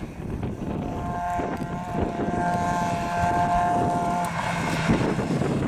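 Competition car engine held at steady high revs for about three seconds, its note then dropping away, over wind rumbling on the microphone.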